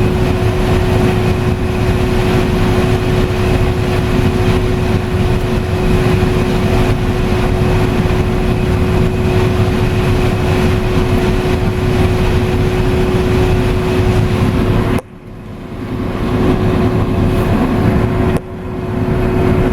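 Combine harvester running while harvesting corn, heard from inside the cab: a loud steady machine drone with a constant hum. Twice near the end the sound drops away abruptly and swells back over about a second.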